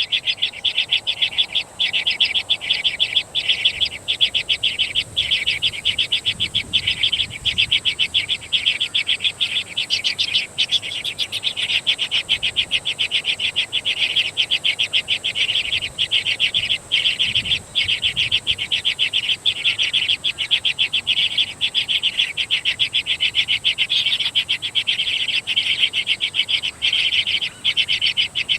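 Birds chirping fast and without a break, many high chirps a second, with a steady thin high whine above them.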